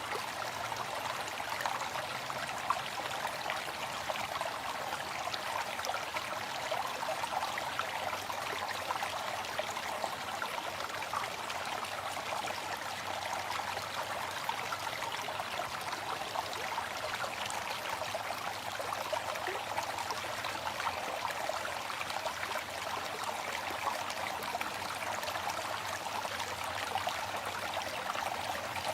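Waterfall: falling water splashing in a steady, even rush with fine splashes, without music.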